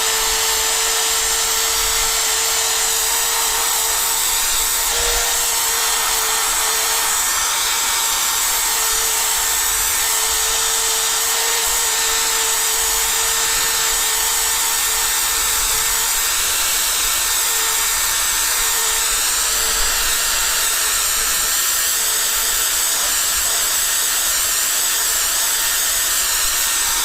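Electric drill spinning a sanding pad, wet-sanding a motorcycle windscreen: one long, steady run at constant speed with a steady hum, stopping right at the end.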